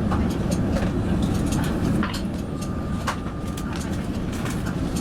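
Steady low rumble of an Airbus A380 passenger cabin before departure, with scattered sharp clicks and knocks and a brief high single-pitch tone about two and a half seconds in.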